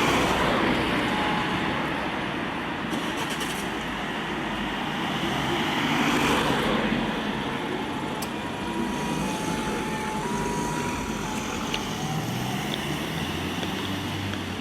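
Street traffic with vehicles driving past, loudest about six seconds in. In the second half a faint siren alternates between two notes, the French two-tone 'deux tons' of a fire engine.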